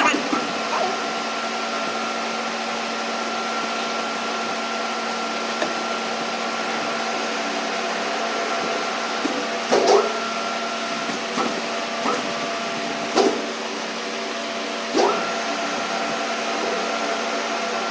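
Electric motor of a power tool running steadily with a pitched hum while a thread is cut on a steel trailer drawbar, with a few brief louder noises over it partway through.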